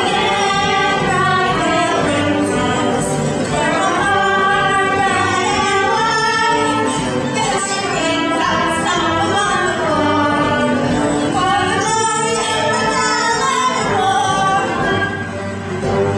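Live stage-musical song: voices singing with instrumental accompaniment.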